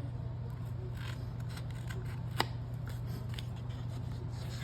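Light clicks and scrapes of paper and small craft tools being handled on a desk, with one sharper click about halfway through, over a steady low hum.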